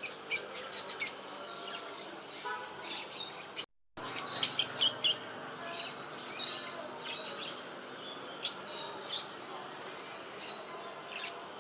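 Small cage birds chirping in quick bursts of short, high notes, with a dense flurry near the start and another just after a brief dropout to silence about four seconds in, then scattered single chirps.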